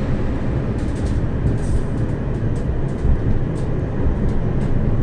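Tram running along the rails, heard from inside the car: a steady low rumble with faint ticks about once a second.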